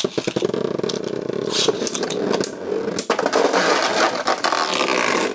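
Beyblade Burst tops launched into a plastic stadium, whirring and scraping against each other and the floor with a fast rattle of contact. The sound starts suddenly and cuts off abruptly a little before five and a half seconds.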